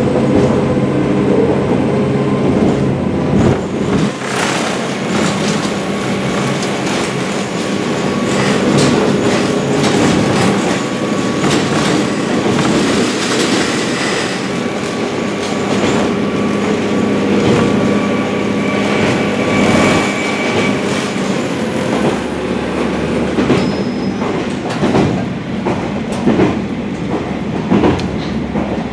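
Local diesel train on the San'in Line, heard from inside the carriage as it runs: a steady rumble with wheels clicking over rail joints, and now and then a thin, high wheel squeal.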